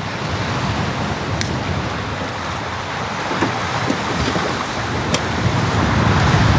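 Sea waves breaking and washing on the shore in a steady wash of surf that swells toward the end.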